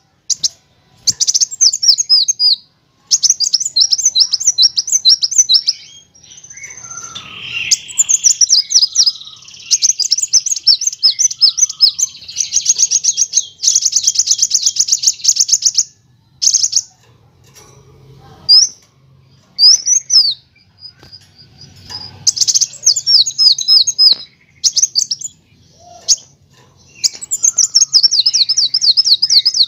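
Kolibri wulung sunbird singing in bursts of rapid, high, repeated chirping trills separated by short pauses, with a lower warbling phrase about seven seconds in.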